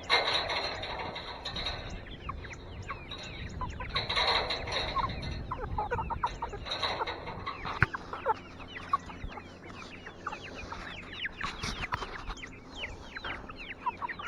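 A flock of chickens clucking and calling, many short falling calls overlapping, with stretches of scratchy noise at the start and about four seconds in.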